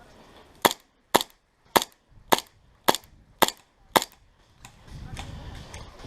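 Airsoft gun firing seven single shots in steady succession, about two a second, sharp and close.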